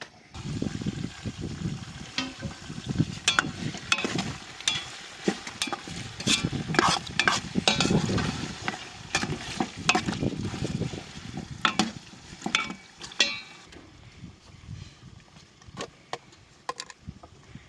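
A utensil stirring and scraping in a cooking pot with food frying, in irregular clatters that thin out near the end.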